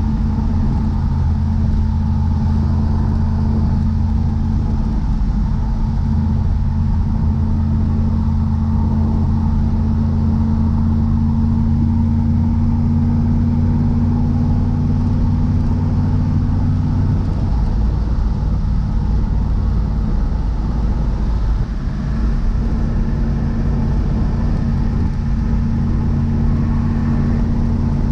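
1988 Pontiac Firebird Formula's 305 tuned-port small-block V8, with Magnaflow exhaust, running steadily under way as a continuous low drone. The note shifts briefly about two-thirds of the way through, then holds steady again.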